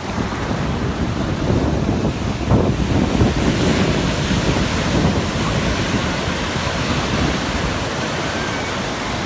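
Ocean surf washing onto the beach, swelling about a third of the way in and then going on steadily, with wind buffeting the microphone.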